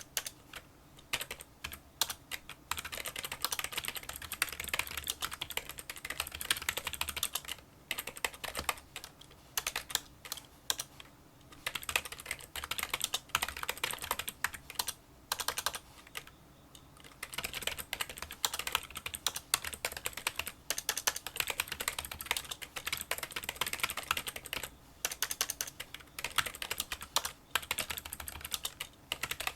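Fast touch typing on a Kinesis Freestyle Solo split keyboard with membrane key switches: a dense stream of small, quiet clicking keystrokes, broken by a few brief pauses.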